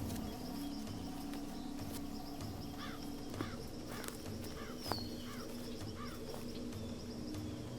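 Nature ambience: a bird gives a run of about six short, repeated calls in the middle, over a steady low drone and a faint high insect-like hiss.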